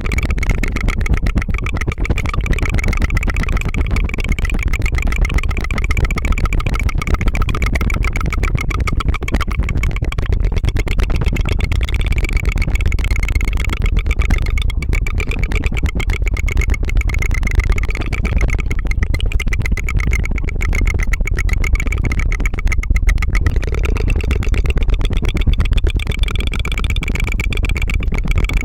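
Tongue fluttering right at the microphone: a rolled-tongue trill, a continuous very fast fluttering buzz like a small engine, with only brief dips for breath.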